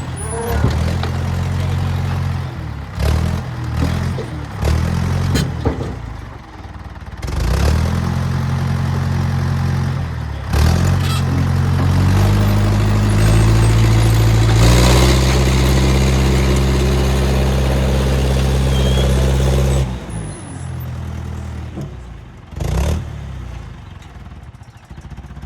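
International 125 crawler loader's engine running under load, its revs rising and falling as it works and held high for several seconds past the middle before dropping back. Several sharp knocks break through it, the loudest one near the end.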